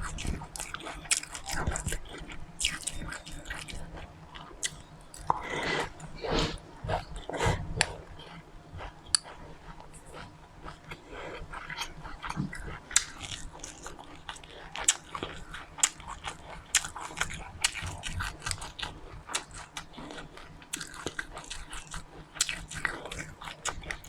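A person chewing and crunching seeds close to the microphone, with many small irregular crackles. The crunching is heavier in a cluster partway through.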